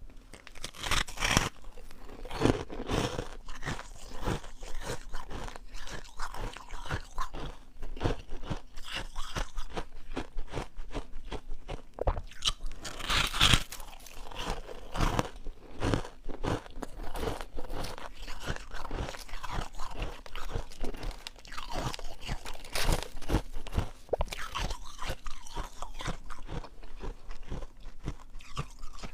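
Close-up chewing of crunchy freezer frost: a person bites and crunches the packed ice crystals in quick, irregular crackles, with louder bites about a second in, about 13 seconds in and about 23 seconds in.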